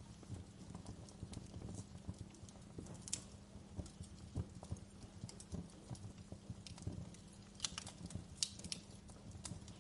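Campfire burning with irregular crackles and pops over a low steady rumble of the flames, with a cluster of sharper pops near the end.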